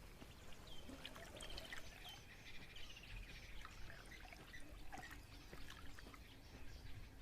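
Faint natural ambience of birds chirping, with a rapid trill a couple of seconds in, over water trickling.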